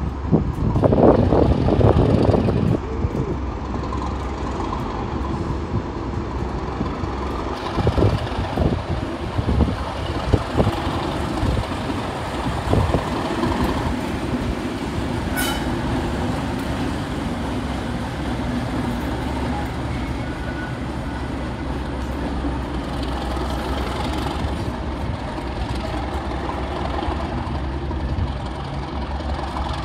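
Train running, a steady low rumble that is loudest in the first few seconds, with a few knocks along the way and one sharp click about halfway through.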